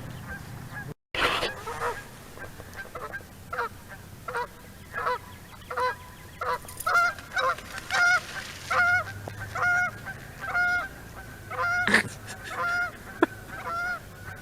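Geese honking over and over, a run of short honks about one and a half a second that grows steady a few seconds in.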